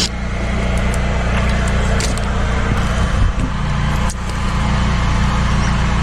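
Drain-cleaning machine's engine running steadily under load, a low even drone with a continuous hiss over it.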